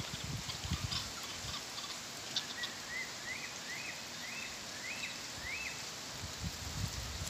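A bird calling a run of about six short notes, each quickly rising then dropping, evenly spaced a little over half a second apart, over a steady background hiss. A few low thumps come near the start and near the end.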